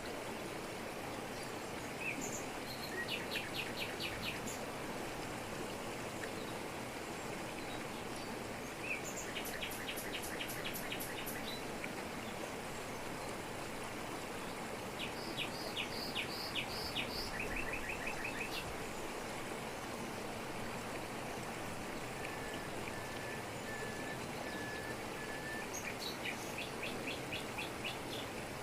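Steady rush of a waterfall falling over rocks in tropical forest. Over it, a bird sings four bouts of rapid, evenly repeated high chirps, with a slower row of lower, even notes in between.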